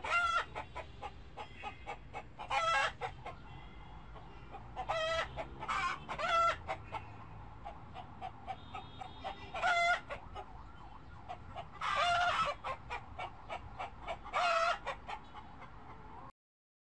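Repeated short, pitched animal calls, each about half a second long, coming every two to three seconds with small clicks in between; the sound cuts off abruptly near the end.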